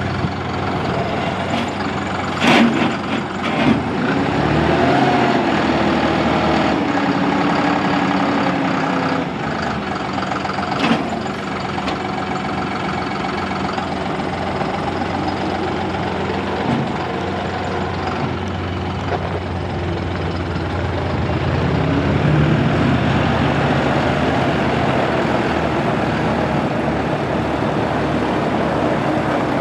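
John Deere 5065E's three-cylinder turbo diesel running steadily, rising in pitch twice as it is throttled up. There is a sharp clack about two and a half seconds in and another about eleven seconds in.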